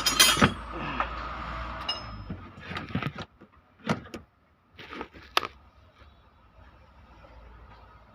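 Sharp metallic clinks and knocks, a handful scattered over several seconds, from tools and engine parts being handled during an engine teardown, with a low rumble under the first couple of seconds.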